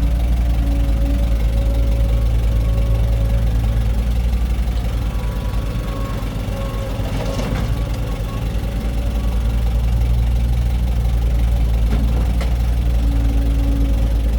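Heavy diesel engine of an excavator or dump truck running steadily with a low, pulsing throb. It eases off a little midway and comes back up.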